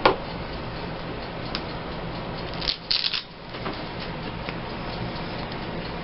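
Paper cut-outs being handled on a craft table: a sharp click at the start, then a brief burst of paper rustling about three seconds in.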